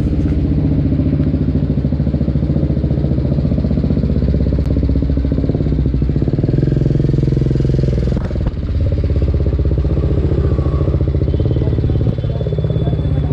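BMW G310R's single-cylinder engine running steadily through an aftermarket exhaust, with a brief dip about eight seconds in.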